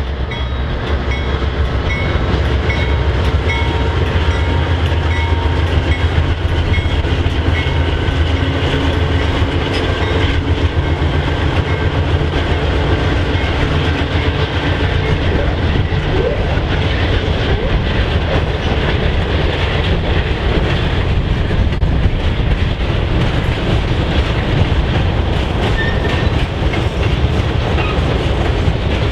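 A train rolling past at close range: a loud, steady rumble with the wheels clacking over the rail joints.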